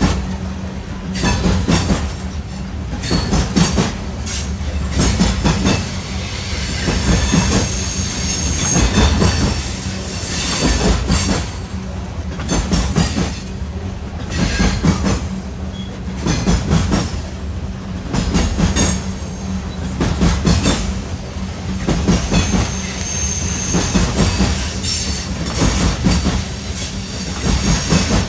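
Freight train cars rolling past, wheels clattering over rail joints in a rhythm that swells about every two seconds as each car goes by, with brief high wheel squeal a couple of times.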